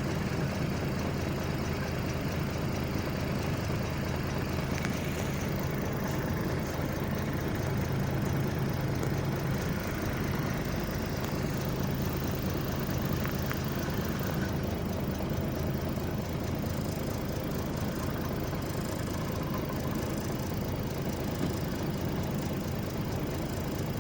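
Heavy engine of stone-loading machinery running steadily at low revs, an even hum with no change in speed.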